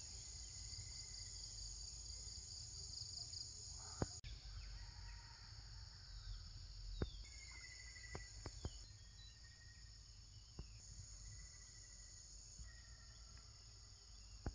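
Steady high insect chorus of crickets or cicadas, with short bird whistles and a few sharp clicks scattered through it.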